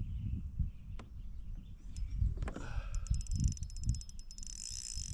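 Spinning fishing reel clicking rapidly from about three seconds in while a hooked fish is played on light line, over a steady low rumble.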